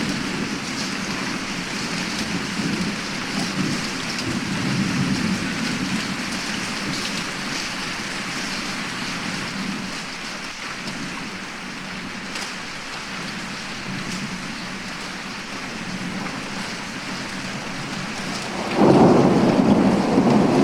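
Thunderstorm sound effect: steady heavy rain, with thunder rumbling and swelling at intervals, and a sudden loud thunderclap near the end.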